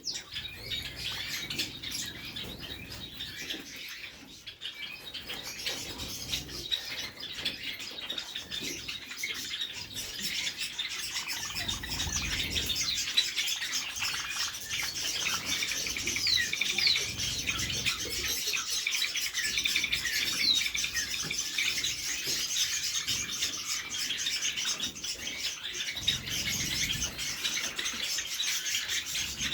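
Many small cage birds chirping and tweeting over one another in a continuous chatter, with a few dull low rumbles underneath.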